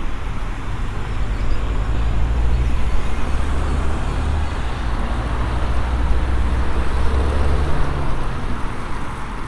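Road traffic passing: a low engine rumble that swells about a second and a half in and fades near the end.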